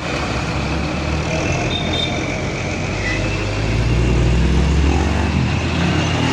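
Heavy truck engine running, growing louder about four seconds in, with a steady high whine over it.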